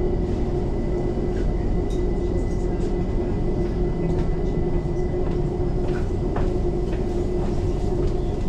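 Steady interior noise of a London Overground Class 378 electric train: a low rumble with a constant hum, and a few faint clicks and rattles.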